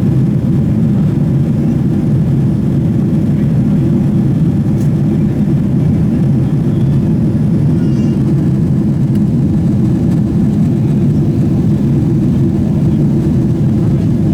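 Steady low cabin roar inside a Boeing 777-300ER in flight: the GE90-115B engines and the airflow over the fuselage, heard from a seat by the wing.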